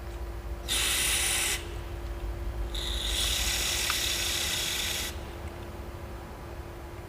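Pressurised spray hissing in two bursts as a carburettor is cleaned: a short burst about a second in, then a longer one of about two seconds.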